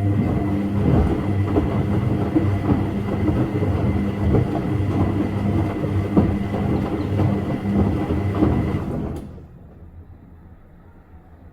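Washing machine running its wash: a motor hum and a steady high whine under irregular knocking and churning from the drum's load. It cuts off abruptly about nine seconds in, leaving a faint low hum.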